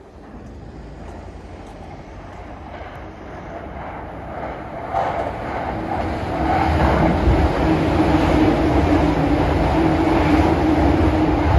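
Yokosuka Line electric commuter train approaching and running past directly below. Its rumble grows louder from about five seconds in and then holds steady, with a steady hum over the wheel noise.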